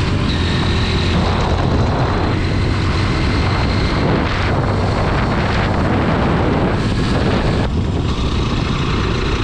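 Honda NX 200 motorcycle's single-cylinder engine running under steady wind rush on the microphone while riding.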